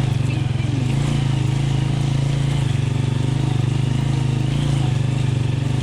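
Motorcycle engine running at a steady pace while riding, with a constant low, even drone.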